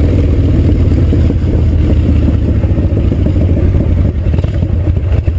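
Harley-Davidson V-twin motorcycle engine running loud, with a steady, dense train of exhaust pulses. About four seconds in, the beat loosens into more spaced, uneven pulses as the engine eases off.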